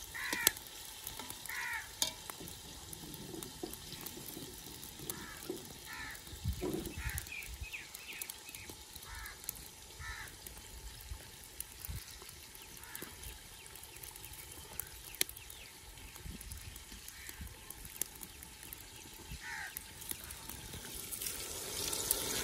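Onions and tomatoes frying in ghee in a large aluminium pot, stirred now and then with a metal slotted spoon that knocks against the pot. Birds call again and again, and the sizzling grows louder near the end.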